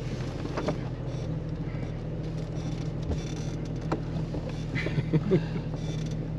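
Jeep Cherokee XJ engine idling steadily, with a few small knocks and clicks over the top.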